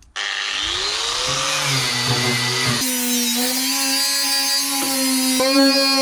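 Power wire brush on a grinder spinning up and running against the steel trunk floor, stripping it down to bare metal. Its whine rises as it comes up to speed and then holds steady, shifting in pitch a couple of times.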